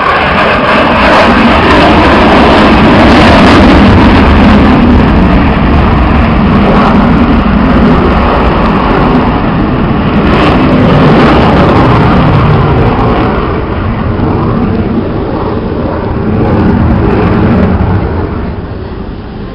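Military jet flying past, its engine noise very loud and continuous, building at the start and easing off near the end.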